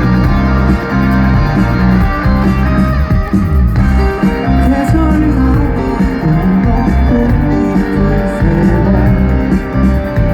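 Rock band playing live, guitars to the fore.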